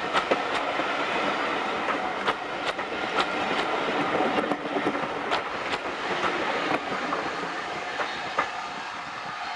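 Train rolling past on a heritage line, its wheels clicking over the rail joints, slowly growing fainter toward the end.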